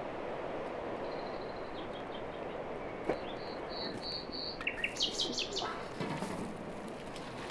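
Small birds chirping in short quick series over a steady rushing background noise, with the busiest run of chirps about five seconds in.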